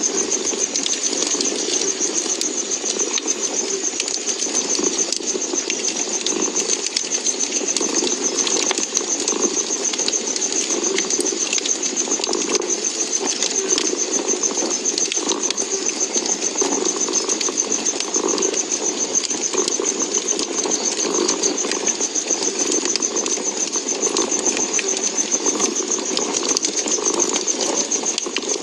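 A cat purring steadily over a crackling wood fire, with scattered small pops and a steady high hiss.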